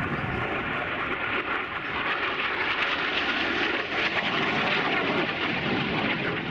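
Vintage jet fighter in flight, its turbojet making a steady rushing roar that grows louder about two seconds in.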